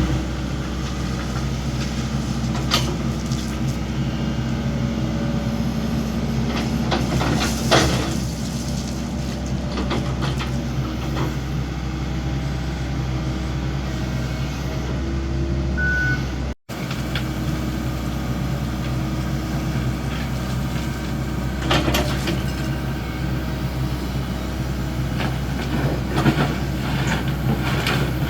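Excavator's engine running steadily, with a few sharp knocks now and then.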